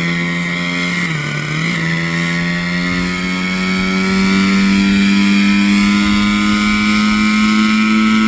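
Nitro glow-fuel engine of a 1980s-era RC helicopter running with a steady high-pitched whine. After a brief dip about a second in, its pitch climbs slowly and it gets louder about halfway through as the throttle comes up and the rotor spools up for takeoff.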